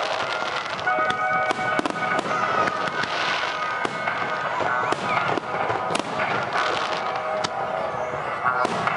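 Fireworks going off: many sharp cracks and pops throughout, over music and voices.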